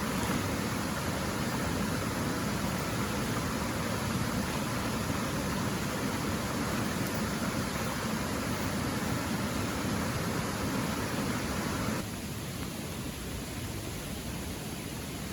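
Steady hiss of rain and rushing water, dropping abruptly in level about twelve seconds in.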